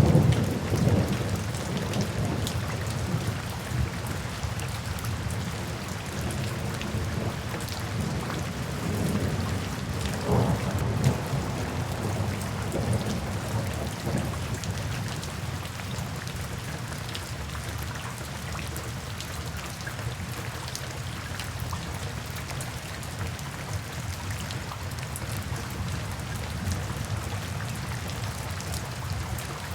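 Steady rain falling, an even hiss of drops, with low rolls of distant thunder: one fading out in the first second and another about ten seconds in.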